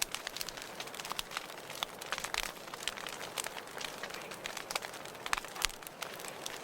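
Wood fire crackling in a fireplace: irregular sharp pops and snaps, several a second, over a steady hiss of burning.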